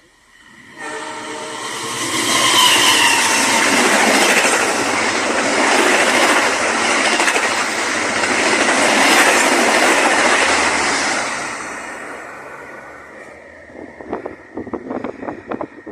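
Express passenger train passing at speed. Its horn sounds about a second in, then the loud rush of wheels and cars going by, which fades toward the end, leaving a run of sharp clicks.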